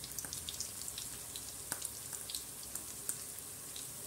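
Minced chicken cutlets frying in vegetable oil in a pan: a steady sizzle with scattered small crackles and pops.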